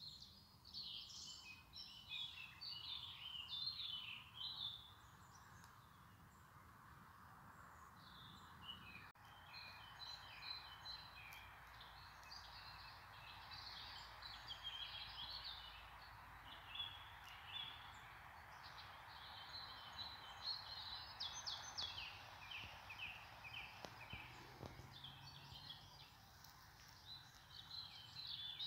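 Faint birdsong: rapid high chirps and trills in bursts over a steady soft hiss.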